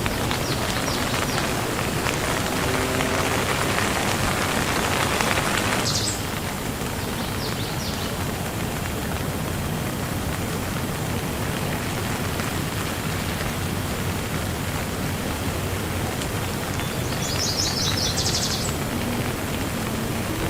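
Steady rain falling, heavier for the first six seconds and then easing abruptly. Short quick high chirps, like a small bird's trill, come through the rain a few times, most clearly near the end.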